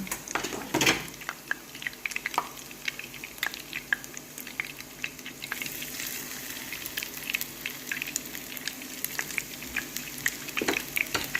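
Breadcrumb-coated chicken pieces frying in hot oil, a steady sizzle with constant crackling and popping. A few louder knocks in the first second.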